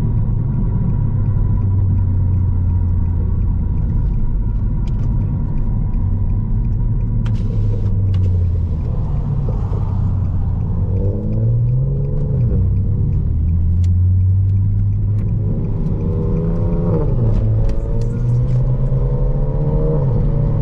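Nissan Altima's engine and exhaust droning at low speed, heard as a loud low rumble whose pitch rises and falls with the throttle a couple of times.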